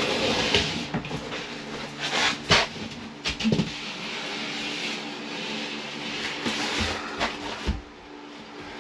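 A drywall sheet scraping and rubbing as it is slid and pushed into place against wood framing, with several knocks and bumps. A faint steady low hum runs underneath.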